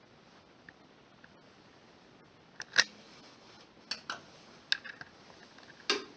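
A few sharp clicks, about one a second, starting a little before halfway, over a quiet background.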